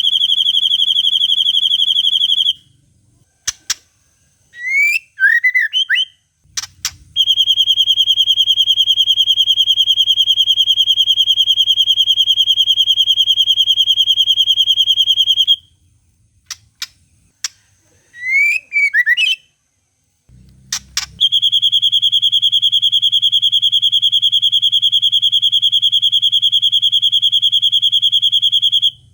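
White-rumped shama (murai batu) singing: three long, very fast, even trills held at one high pitch, the long 'cililin' phrase, with short quick chirping notes between them.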